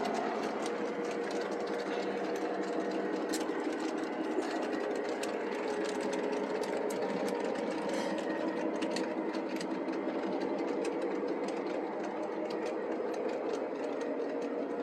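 Model electric train running under power along the track: a steady motor hum with scattered light clicks.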